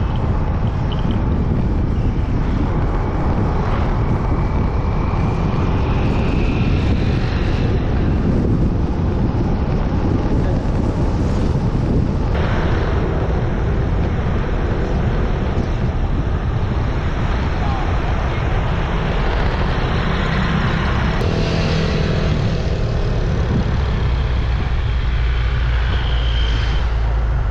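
Riding noise from a moving scooter: steady wind on the microphone over the engine and road noise.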